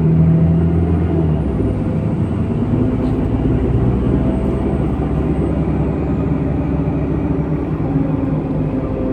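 MAZ-103 city bus running, heard from on board: steady engine and drivetrain rumble, with a strong low engine tone that drops away about a second and a half in.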